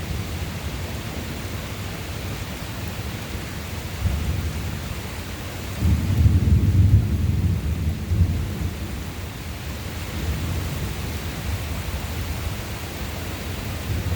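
Thunder rolling over steady rain: a low rumble that swells suddenly about six seconds in, peaks over the next two seconds and slowly fades back into the rumble and rain.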